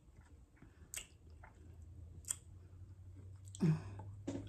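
Close-miked wet chewing of candied plums, with sharp clicks about one second and two and a half seconds in.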